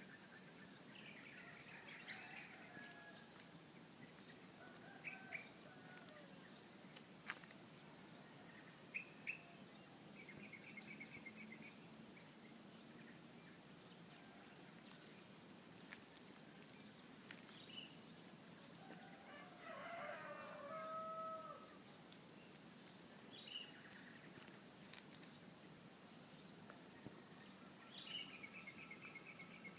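Faint outdoor birdsong: scattered short chirps and trills, and a rooster crowing once about two-thirds of the way through, over a steady high-pitched hiss.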